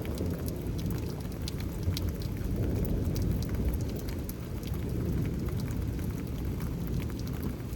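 Steady rain during a thunderstorm, with many individual drops ticking over a continuous low rumble.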